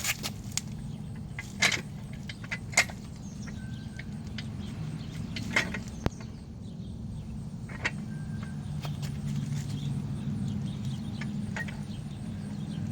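Metal motorcycle front stand being handled and set against the fork, giving scattered sharp clicks and clinks, about half a dozen, over a steady low hum.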